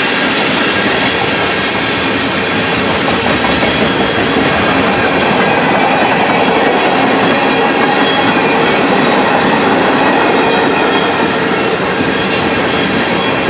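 A freight train of loaded tank cars passing close by, its steel wheels rolling and clattering on the rails in a loud, steady rush.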